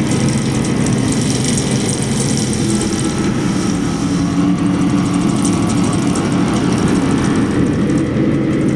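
Giant metal spring bolted to a wooden beam, heard through a contact mic inside it. It makes a loud, steady, engine-like drone: several low hums stacked under a hissy metallic wash.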